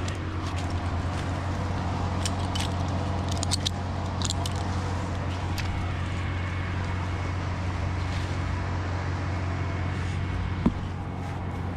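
An engine running steadily at an even speed, giving a low, constant drone. A few light clicks come over it in the first half, and there is one sharp knock near the end.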